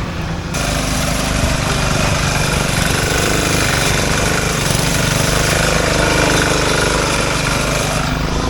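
Small engine of a racing riding lawn mower running steadily.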